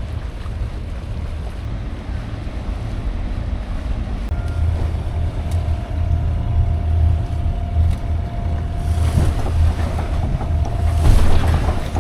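Wind buffeting the microphone on a moving boat, with water rushing along the hull. A faint steady whine comes in about four seconds in and stops near the end, and two surges of rushing, splashing water come in the last few seconds.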